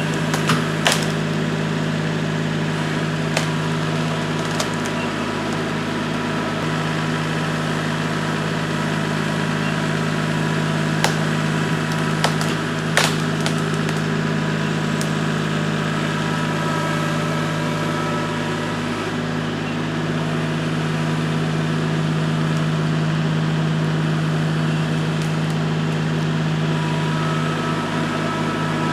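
Kubota L3301's three-cylinder diesel engine running at a steady speed, with a few sharp cracks of rotted black cherry limbs snapping as they are pulled down, the loudest about 13 seconds in.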